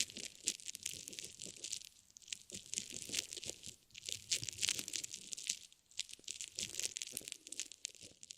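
Dense, irregular crinkling and crunching of a crinkly material being handled and squeezed, with brief lulls, cutting off abruptly at the end.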